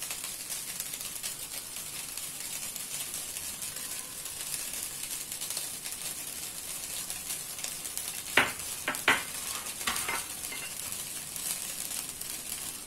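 Rice frying in an aluminium pot on a gas stove, giving a steady faint sizzling hiss. A few sharp clicks come in quick succession about two-thirds of the way through.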